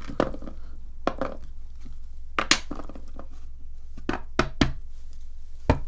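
A series of short, sharp clicks and knocks, about eight of them, irregularly spaced, over a low steady background hum.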